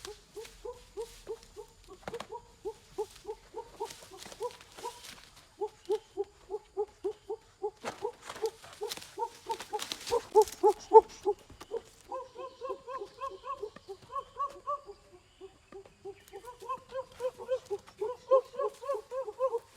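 Short, hooting hum-like vocal sounds repeated about two to three times a second, running on throughout and going a little higher in pitch about halfway through, with a few brief crackly sounds in the first half.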